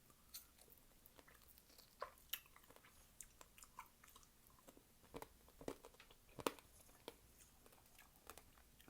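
Faint close-up eating sounds: scattered crisp crunches and chewing of fruit, loudest about two and a half seconds and six and a half seconds in.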